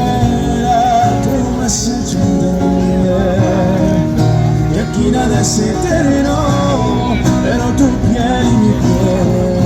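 A song sung with plucked guitar accompaniment, the melody wavering over steady chords.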